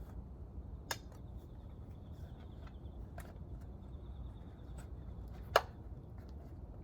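A few scattered sharp clicks and light taps, the loudest about five and a half seconds in, over a low steady hum: small tools and metal engine parts being handled during disassembly.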